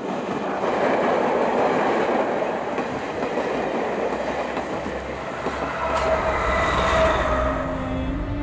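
Diesel multiple-unit passenger train running past on the rails, a loud steady rumble of wheels on track that swells in at the start.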